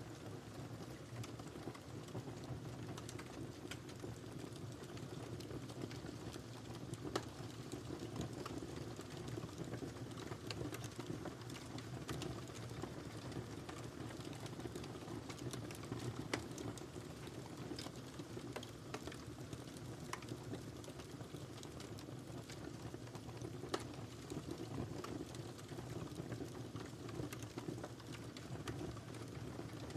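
Wood fire crackling in a fireplace: a steady low rush of flames with frequent small pops and a few louder snaps, about 7, 16 and 24 seconds in.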